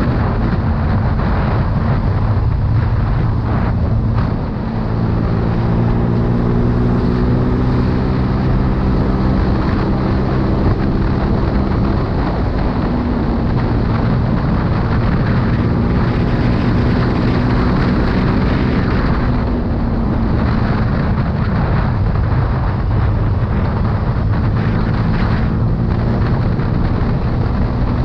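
CFMoto 250 CL-X motorcycle's single-cylinder engine running under way, its revs rising and settling as the throttle is worked, with a brief drop about four and a half seconds in. Wind rushes over the microphone throughout.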